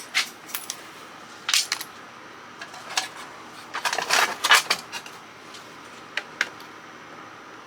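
Small pieces of scrap metal clinking against each other and onto a hard surface as they are handled, a dozen or so separate clinks with a quick run of them around four seconds in.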